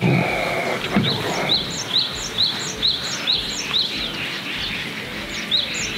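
A bird calling short, rising chirps over and over, about three a second, over steady outdoor background noise.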